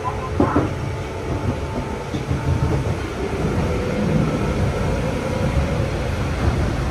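Shizuoka Railway 1000 series electric train running on the line, a steady low rumble of wheels and running gear.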